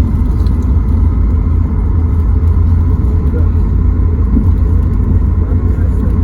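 Boeing 737 MAX 8 cabin noise heard from a window seat near the tail: a steady, deep rumble with a faint, steady high whine above it.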